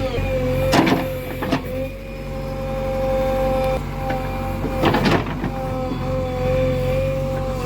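Heavy diesel machinery running under load, a steady engine rumble with a high held whine over it. There are short clanking knocks about a second in, a moment later, and again about five seconds in.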